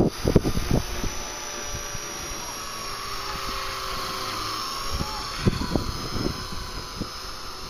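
Walkera V120D02S electric micro RC helicopter running with a steady high whine from its motor and rotors, while gusts hit the microphone in short low thumps, most at the start and again about five to six seconds in.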